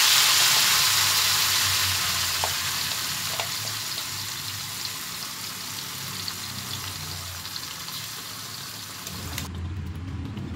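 Blended chili, tomato and garlic paste sizzling in hot oil in an aluminium wok, loud at first and fading steadily as the oil takes up the wet paste. The sizzle cuts off suddenly about a second before the end.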